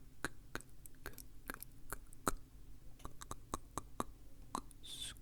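Close-miked wet mouth sounds for ASMR: a string of sharp tongue-and-lip clicks, about two to three a second, with a short breathy hiss near the end.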